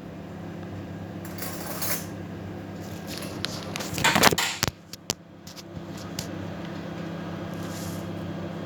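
Scattered knocks and rattles of things being handled, with the loudest, a half-second clatter, about four seconds in and a few sharp clicks just after, over a steady low hum.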